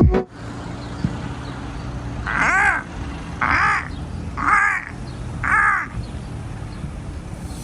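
A crow cawing four times, about one harsh caw a second, over a low steady background rumble.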